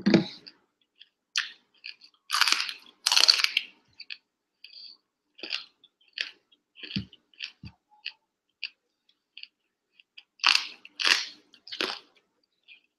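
Raw broccoli being chewed with a run of short crackling crunches, and two spells of louder, longer crunching. A dull thump comes right at the start.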